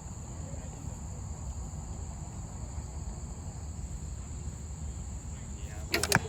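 Insects chirping in a steady, high-pitched chorus over a low rumble, with a few sharp clicks near the end.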